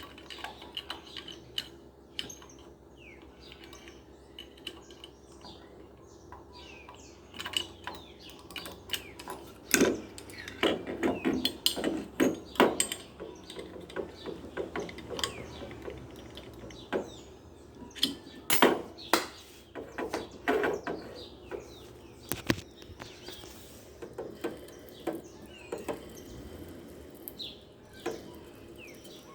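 Irregular clicks, knocks and light metallic clinks of washing-machine motor parts and tools being handled, busiest about ten seconds in and again near the twenty-second mark.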